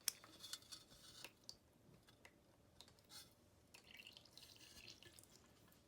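Near silence with a few faint clicks in the first second or so and some light scraping later on, from small metal parts and hand tools being handled.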